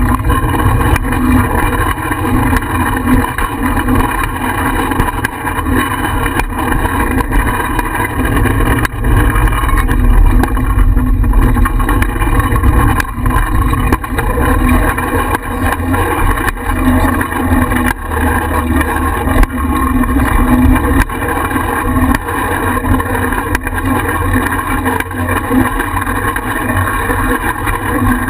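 Wind buffeting the microphone of a bicycle-mounted GoPro while riding: a loud, steady rumble.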